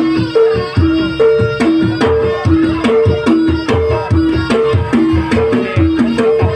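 Traditional Javanese trance-dance music: a repeating two-note figure on a tuned percussion instrument over steady hand-drum strokes, with a fast, even beat.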